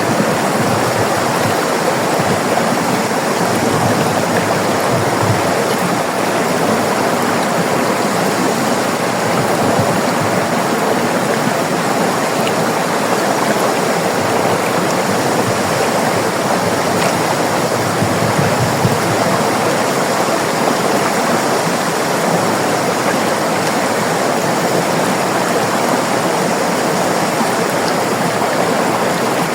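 River water running and splashing over rocks: a steady rushing flow.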